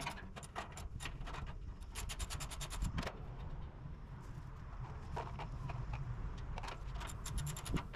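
Quick light clicks and rattles of small hard parts being handled, in clusters about two seconds in and again near the end, over a low rumble.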